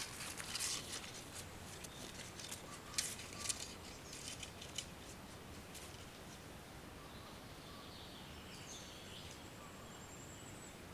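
Footsteps crunching and rustling through forest leaf litter for the first five seconds or so, then faint bird chirps.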